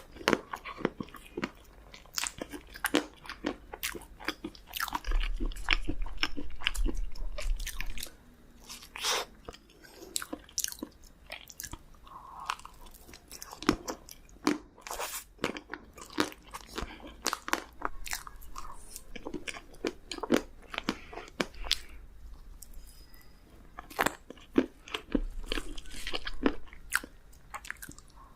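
Close-miked eating sounds: cake slices being bitten and chewed, with many small irregular crunches and mouth clicks. A louder, denser stretch of chewing comes about five seconds in and lasts a few seconds.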